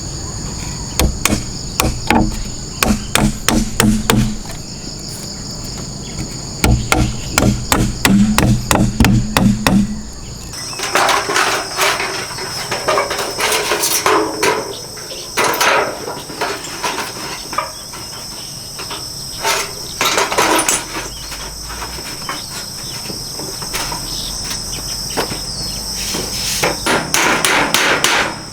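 Hammer blows on wood in quick runs of strikes, over a steady high chorus of insects. About ten seconds in the sound changes to longer, noisier and more irregular knocks.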